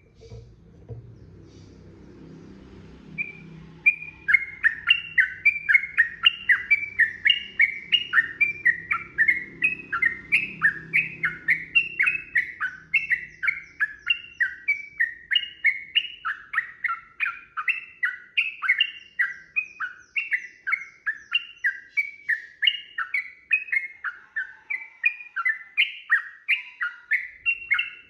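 Sooty-headed bulbul (trucukan) singing a long unbroken run of quick, rapidly repeated notes, about two or three a second, starting about four seconds in. A faint low rumble lies under the first half.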